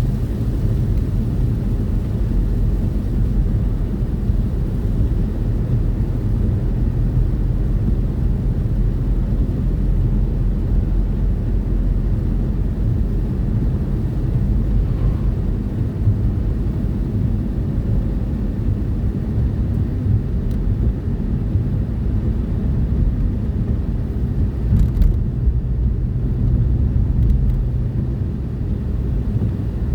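Truck engine and road noise heard from inside the cab while driving: a steady low drone.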